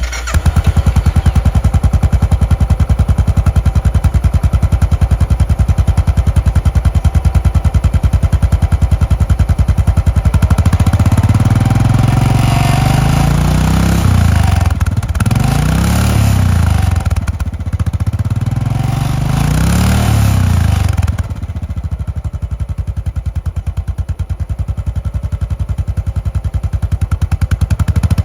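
Royal Enfield Bullet G5 Classic's single-cylinder engine idling with an even, steady beat. It is revved up and down a few times in the middle, then settles back to a slightly quieter idle.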